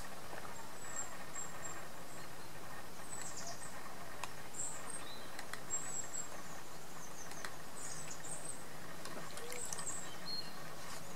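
Small birds chirping on and off in short, high calls over a steady faint outdoor background, with a few faint clicks.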